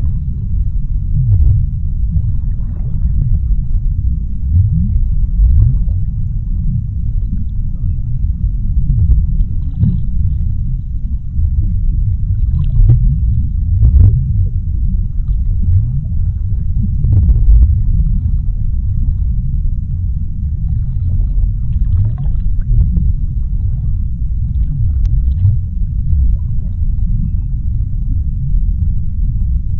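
Underwater ocean ambience: a steady deep rumble with faint clicks and crackles scattered through it.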